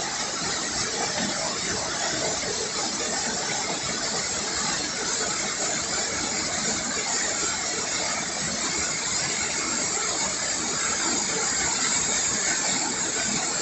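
Waterfall tumbling into a small river: a steady, even rush of falling and running water.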